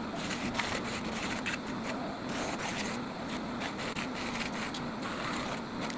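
A tool scraping against wood in irregular strokes over a steady low hum.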